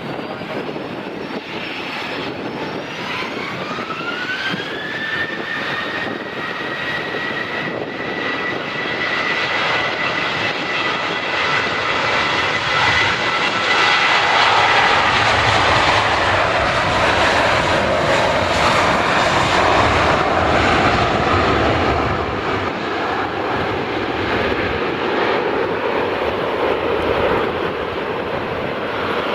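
Jet airliner's engines spooling up: a whine rises in pitch a few seconds in, then holds steady under a growing roar that is loudest around the middle and eases slightly near the end.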